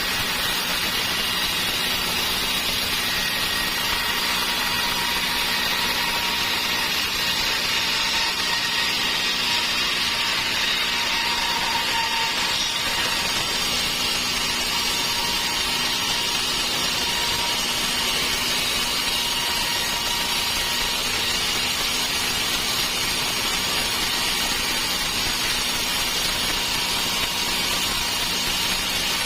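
Sawmill saw running steadily on dry teak, a constant machine hum under an even hiss with no breaks.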